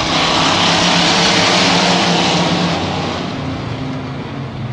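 Racing stock trucks' engines at full throttle passing on a dirt oval track, loudest for the first two or three seconds and then fading as they move away.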